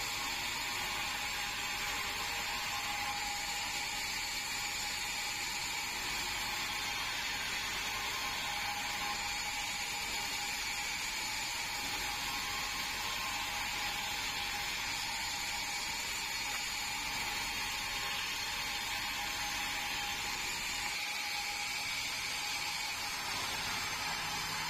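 Band sawmill running steadily while sawing red meranti, a continuous high whine over a rasping hiss.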